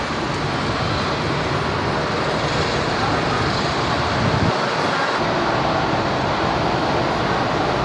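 Jet airliner engines running as a plane taxis, a steady, even rushing noise with a brief low swell about four seconds in.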